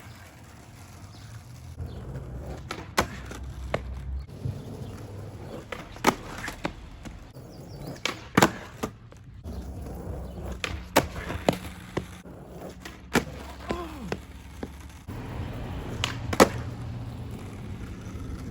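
Skateboard on pavement: wheels rolling with a low rumble, and repeated sharp wooden clacks of the board popping and landing, the loudest one near the end.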